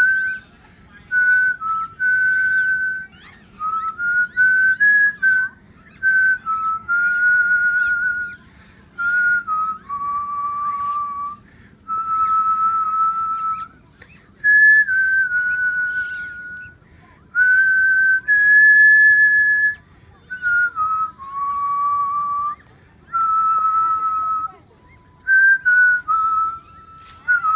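A person whistling a slow tune: a series of clear, held notes that step up and down in pitch, with short breaks between phrases.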